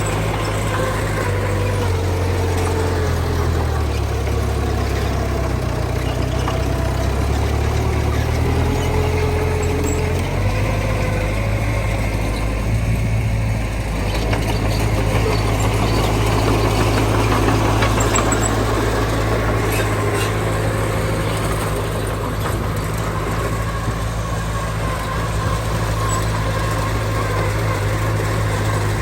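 Diesel engine of heavy earthmoving machinery running steadily, its note shifting about ten seconds in.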